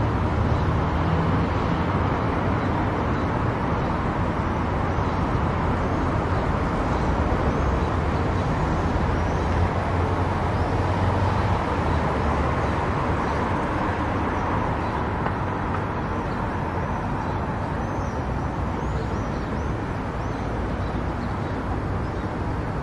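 Car driving on an expressway: steady tyre and engine noise with a low hum, easing slightly in loudness toward the end.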